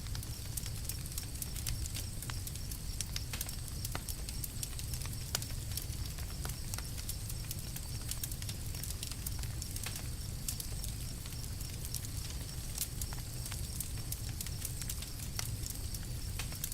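Wood campfire crackling, with frequent small sharp pops and snaps over a steady low rumble of the fire.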